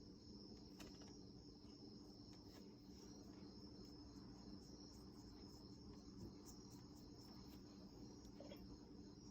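Near silence: faint room tone with a steady high-pitched whine and a low hum, and a few faint ticks.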